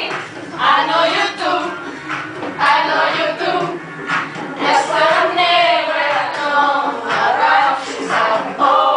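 Pop song with several women's voices singing over backing music.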